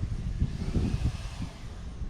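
Wind buffeting the microphone in uneven gusts of low rumble.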